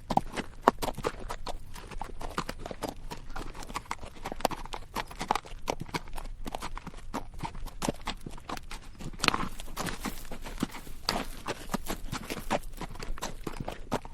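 Horse walking on a rocky mountain trail, recorded from on horseback: hooves clopping and clattering on stones in an uneven, continuous stream, with a couple of louder clatters in the second half.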